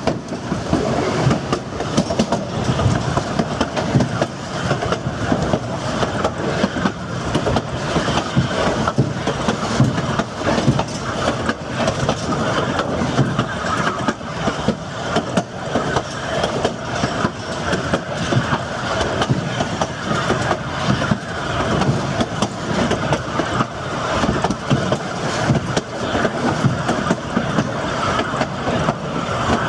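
Durango & Silverton narrow-gauge passenger train rolling along the track: a steady rumble of the cars with wheels clicking and rattling over the rail joints.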